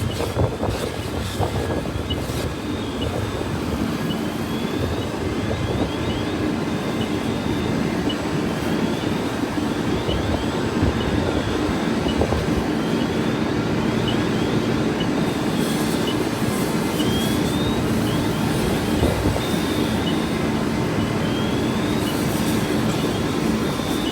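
A large engine running steadily, a low hum over a continuous rumble, with faint short rising chirps repeating high above it.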